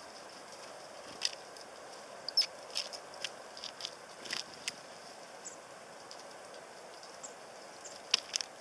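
Tits feeding at a sunflower-seed feeder: irregular sharp taps and clicks as they peck and hammer at the seeds and land on the feeder, bunched in the first half and again near the end, with a few thin high notes.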